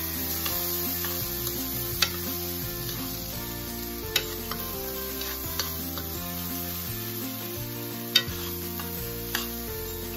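Sliced hot dogs, shredded carrot and scrambled egg sizzling in a nonstick frying pan as they are stirred with a metal spoon. The spoon clicks sharply against the pan every second or two.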